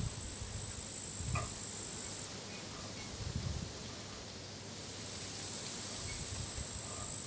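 Crickets singing in a continuous high, even trill that stops about two seconds in and starts again near the five-second mark. Occasional wind gusts rumble on the microphone.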